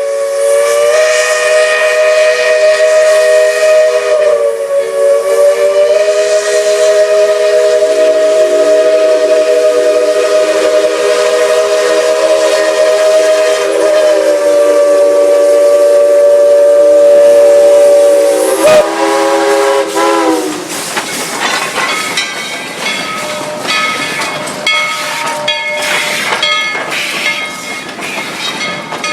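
Steam locomotive whistle blowing one long chord of several notes for about twenty seconds, its pitch sagging as it dies away. Then comes the clicking and clatter of the train rolling on the rails.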